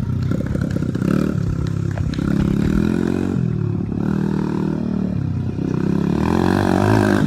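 Honda XR100R dirt bike's single-cylinder four-stroke engine revving up and down while being ridden, its pitch rising and falling several times.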